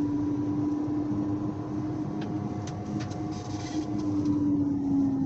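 2014 Audi Q5's rear wheel bearings howling at speed: a steady drone over road noise, dipping slightly in pitch near the end. The driver thinks both rear wheel bearings are shot.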